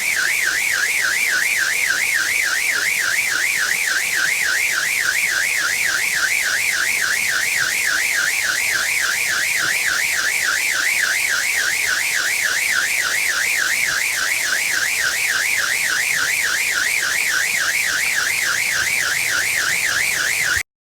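A fast warbling electronic tone, wavering rapidly up and down in pitch at about three wobbles a second over a steady hiss, cutting off suddenly near the end.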